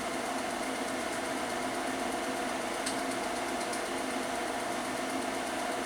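Steady mechanical whirring hum, even in level and unbroken throughout.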